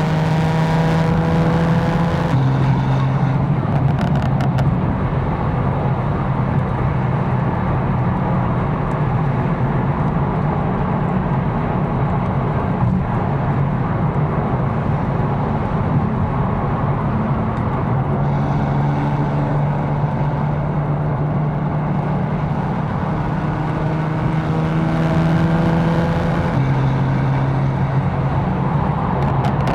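Tuned 750 hp BMW M4's twin-turbo inline-six engine droning under steady driving, with constant road noise; the engine pitch steps down at about two seconds, back up at about eighteen seconds, and down again near the end, as with gear changes.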